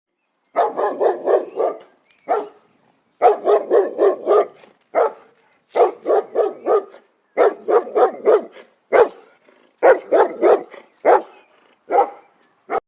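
A dog barking in rapid runs of four to six barks, with short pauses and single barks in between.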